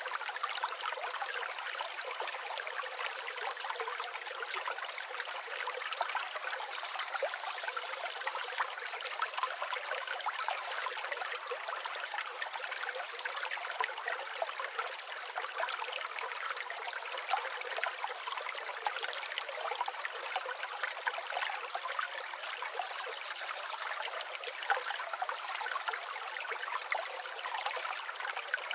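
A river or stream flowing steadily, a continuous rushing and trickling of water with no low rumble.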